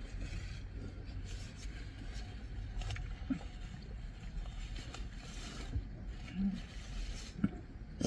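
Low steady rumble of a car interior, with faint scattered clicks and rustles from people chewing crusty toasted baguette sandwiches and wiping with a paper napkin.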